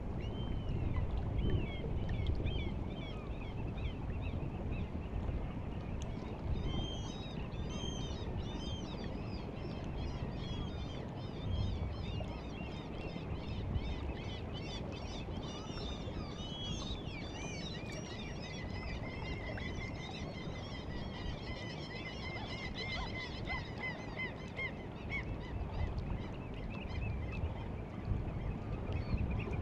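Sea water washing along the shore of a bay at the incoming tide, with a flock of birds giving many short, high calls over it and one bird's rapid trill in the second half.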